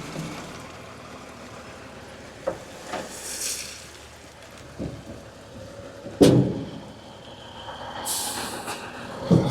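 Kubota KX040-4 compact excavator working: its engine runs steadily under several sharp knocks and clanks, the loudest about six seconds in, with short spells of hiss.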